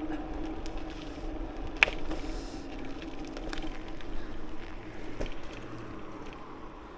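Bicycle on the move: steady rolling and wind noise with a low hum, and scattered sharp clicks and ticks, the loudest about two seconds in.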